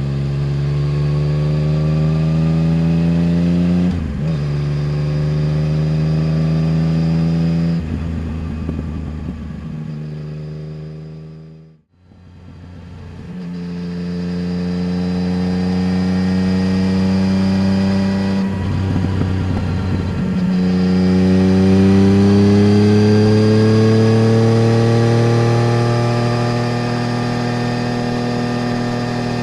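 Yamaha Tracer 900 GT's 847 cc inline-three engine through a full Roads Italia exhaust, accelerating through the gears: the pitch climbs and then drops at each upshift. In the middle the engine note falls away as the bike slows, and the sound briefly fades almost to nothing. It then pulls up through two more gears and holds a steady pitch near the end.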